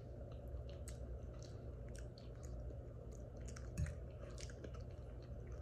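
A person chewing a mouthful of food, with small wet mouth clicks and smacks at an irregular pace over a low, steady hum.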